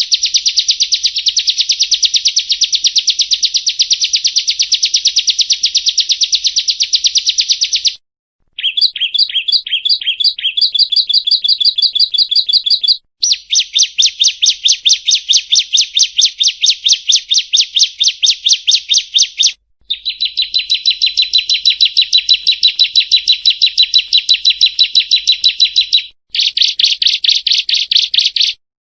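Prinia (perenjak) calling: long runs of fast, evenly repeated high chip notes. These break off abruptly into brief silences several times, as in an edited lure recording.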